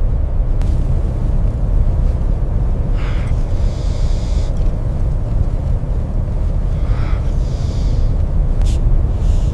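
Blizzard wind, a loud steady low rumble, with two short hissing gusts about three and seven seconds in.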